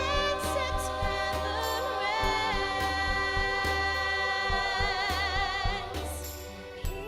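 A group of voices singing a slow song in harmony, holding long notes with vibrato, over a band accompaniment with a steady, pulsing bass.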